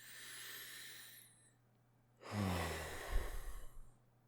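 A man takes a deep breath in, then about two seconds later lets it out in a long sigh with some voice in it, steadying his nerves.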